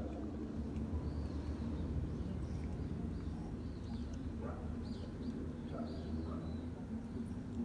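Small birds chirping faintly and repeatedly over a low, steady outdoor rumble.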